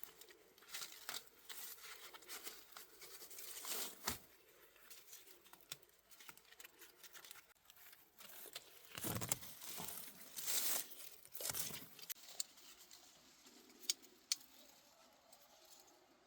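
Dry plant material being handled: irregular rustling and tearing with scattered sharp clicks.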